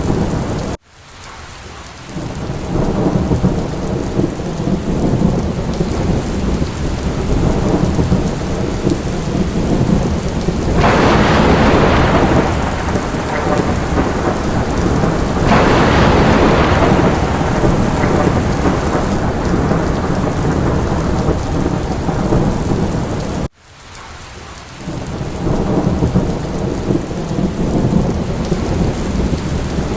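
Steady heavy rain with thunder rumbling, swelling louder twice in the middle. The sound cuts out abruptly about a second in and again near the end, then fades back in.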